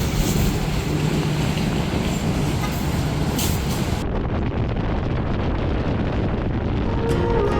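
Motorcycle on the move: steady engine hum under loud wind rush. Music fades in near the end.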